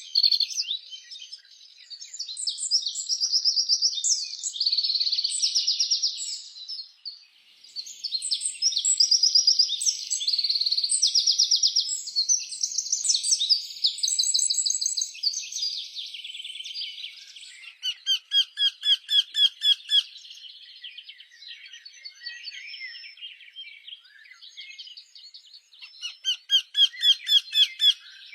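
Songbirds singing together in fast trills and chirps. About 18 s in, and again near the end, one bird gives a run of loud, evenly repeated notes.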